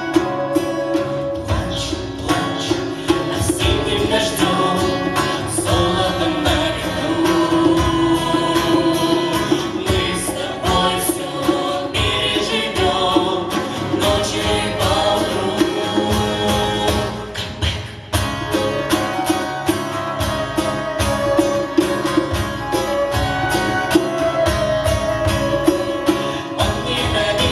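A song performed by a vocal-instrumental ensemble: instruments playing with singing voices over them, no words picked out. The music briefly drops away about 18 seconds in, then resumes.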